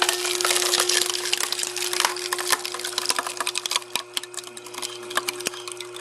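Firewood log cracking and splintering as a homemade log-splitting machine forces it apart, dense crackles that thin out after about four seconds, over the machine's steady hum.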